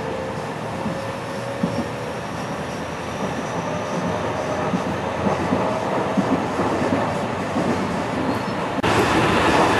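Running noise inside a JR West 207 series electric commuter train car: steady rolling and rail noise under a faint whine that slowly rises in pitch. Near the end the noise suddenly steps up and gets louder.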